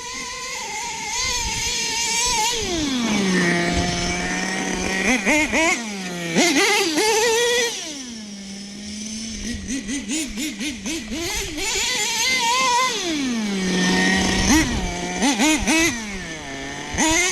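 Small two-stroke .21 nitro engine of an RC monster truck (AE Pro .21 in a Team Associated mini MGT 3.0) running. It revs up high in bursts and quick throttle blips, dropping back to a steady idle between them several times.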